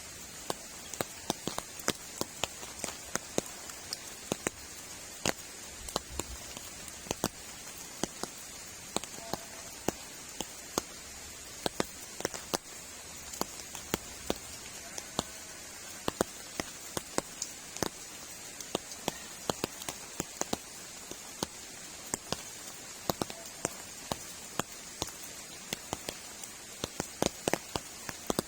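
Rain falling, heard as many irregular sharp drop taps, several a second, over a steady high hiss.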